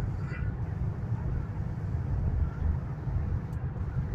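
Steady low rumble inside the passenger carriage of a high-speed bullet train cruising at about 295 km/h, with a fainter hiss over it.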